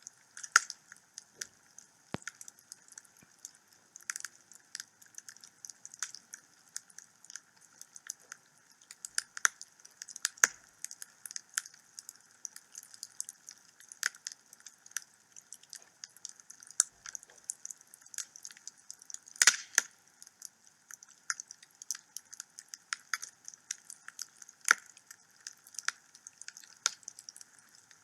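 Wood fire burning in a home fireplace: irregular crackles and snaps of burning logs over a soft hiss, with a few sharper pops, the loudest about two-thirds of the way through.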